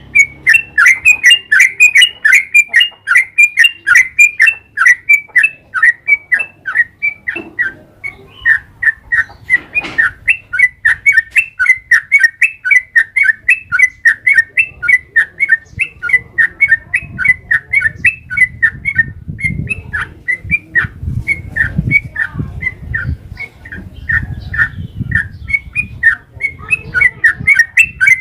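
Yellow-vented bulbul singing a long, unbroken run of short, rapid chirping notes, several a second. A faint low rumble lies under the song in the second half.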